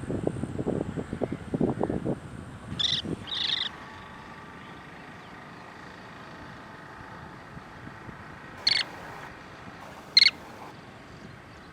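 Four short, sharp bird calls: two close together about three seconds in, then two more a second and a half apart later on, over a faint steady background. A low rustling rumble fills the first three seconds.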